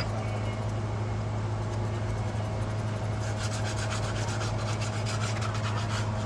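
Car engine idling with a steady low hum, and fast rubbing strokes, like hand filing or sanding, start about three seconds in and continue.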